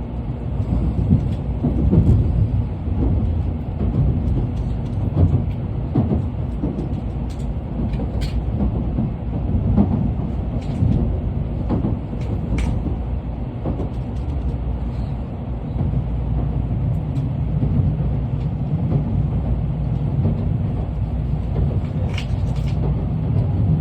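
Tokaido Shinkansen train pulling away from the station, heard inside the passenger car: a low rumble of the running gear with scattered clicks and creaks. The rumble becomes steadier about two-thirds of the way through.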